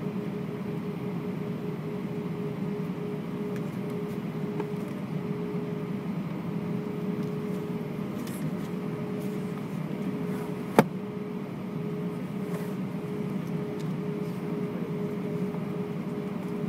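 Steady airliner cabin hum inside an Airbus A320: a constant tone over a low rumble, with no rise in level. A single sharp click about eleven seconds in.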